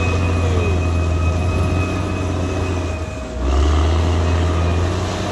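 Caterpillar D6R XL bulldozer working: a steady diesel drone with a constant whine over it. About three seconds in the sound dips briefly, then comes back louder and deeper.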